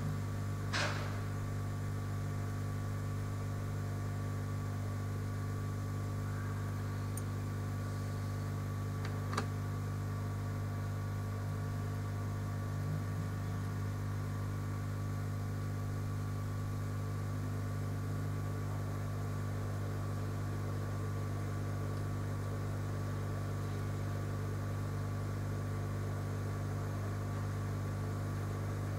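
Steady low electrical hum from running equipment, unchanging throughout, with two brief clicks: one about a second in and one about nine seconds in.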